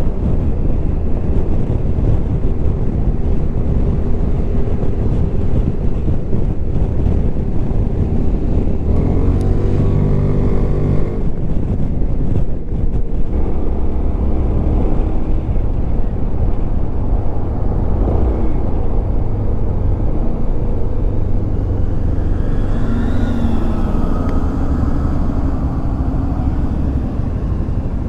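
Suzuki Burgman 400 ABS scooter's single-cylinder engine and exhaust running steadily at expressway speed over a dense low rumble of wind and road. About ten seconds in, the engine note rises for a moment.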